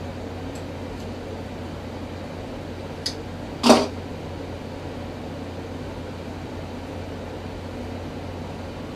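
Revlon One-Step hair dryer brush running steadily on its low setting: a constant rush of motor and airflow with a low hum. About three seconds in there is a light click, and half a second later a louder knock.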